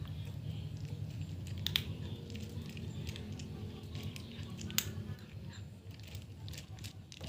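Cat chewing food, with a few sharp crunching clicks over a steady low hum.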